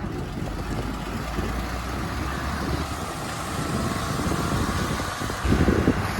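Heavy diesel engine running steadily, with a louder rumble about five and a half seconds in.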